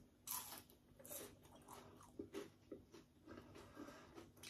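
Faint crunching and chewing as a person bites into and eats a crispy hash brown fry, with a few irregular crunches about a second apart.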